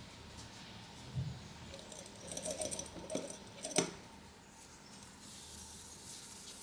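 Small repair tools and phone parts being handled on a work surface: a soft knock about a second in, a run of light clicks and rattles, then a sharp click just before four seconds.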